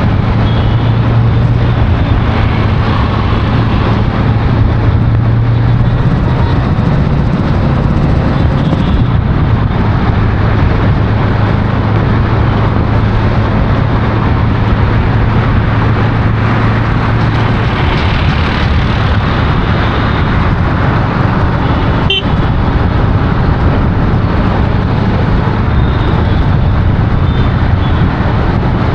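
Steady road traffic noise with a low engine drone from a vehicle close by, and a few faint horn toots now and then.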